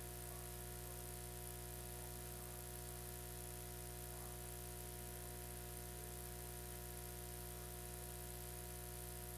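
Steady electrical hum with a buzz of many unchanging tones, under a layer of hiss. This is a feed carrying no program sound.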